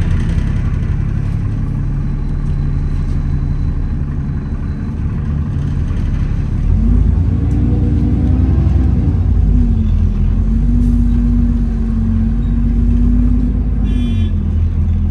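Inside an Alexander Dennis Enviro400 double-decker bus on the move: the low engine and road rumble runs steadily, and about halfway through a whine rises, holds steady for a few seconds, then drops away near the end.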